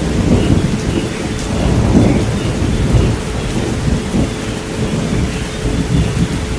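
Rain falling with rolling thunder rumbling in slow swells, and a steady pure tone of about 432 Hz held beneath it.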